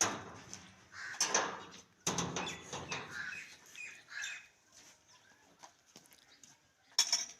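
Birds calling in short separate calls, with a few sudden sharp knocks, the loudest right at the start and one near the end.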